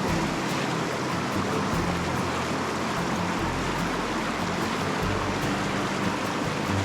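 Rushing mountain creek water, a steady even rush.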